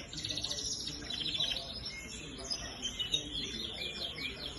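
Domestic canaries singing, with fast rolling trills and chirps.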